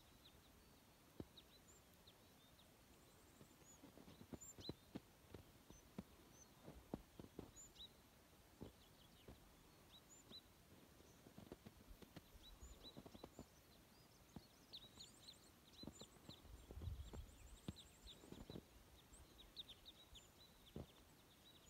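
Quiet snowy outdoor stillness with faint, high chirps of small birds calling again and again, including a couple of quick trills in the second half. Scattered soft knocks and crunches are heard, the loudest a little after halfway.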